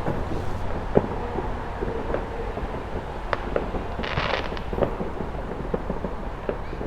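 Distant fireworks going off: a scattered run of sharp bangs and pops, the strongest about a second in, with a short crackling hiss about four seconds in, over a steady low rumble.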